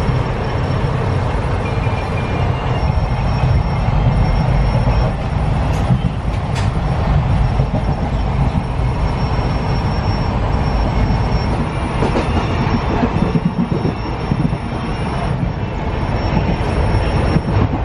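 Steady low rumble of an Indian Railways passenger coach in motion, heard from inside the carriage, with a few light clicks.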